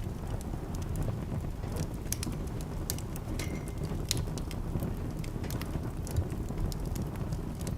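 Wood fire burning in a fireplace: a steady low rumble of flames with irregular sharp crackles and pops, and a brief faint whistle about three and a half seconds in.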